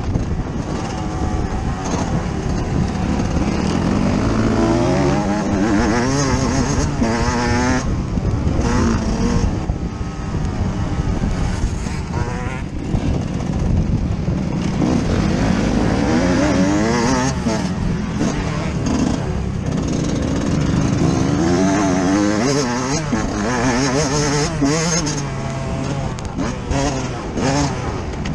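Yamaha YZ125 two-stroke motocross engine heard from on board, its revs rising and falling over and over as the throttle is worked around the track.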